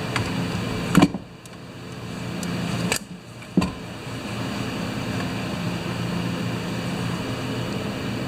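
Steady machine hum in the workshop, with three sharp clicks from small parts being handled, about a second in, about three seconds in and just after.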